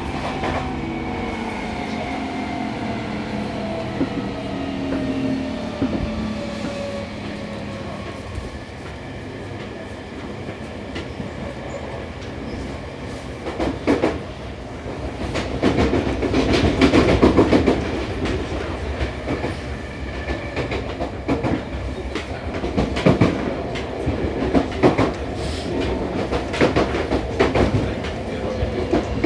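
Seibu 6000 series train's Toshiba IGBT VVVF inverter and traction motors whining with tones falling in pitch as the train brakes for a station stop, over wheels clicking across rail joints. About halfway through there is a louder stretch of rumble and clatter, and a few sharp clicks follow near the end.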